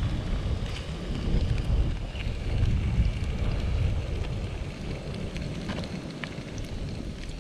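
Coastal wind buffeting the microphone as a gusting low rumble, easing a little in the second half, over a faint scatter of small sharp ticks.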